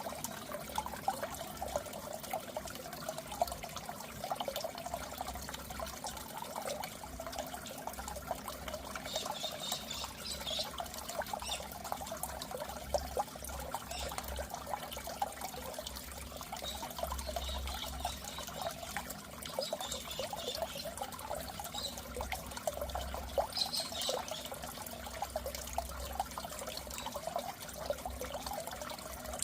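Goldfish aquarium water trickling and bubbling steadily, with a low hum underneath, as from the tank's filter or air pump.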